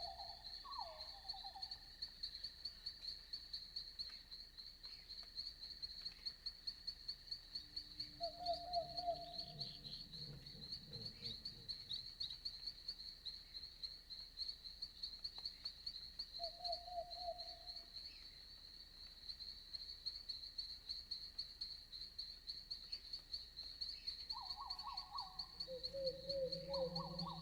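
Night forest ambience: crickets chirping steadily in a high, fast-pulsed trill. A few short, warbling calls from another night animal rise above it, one about nine seconds in, one a little past halfway, and several close together near the end.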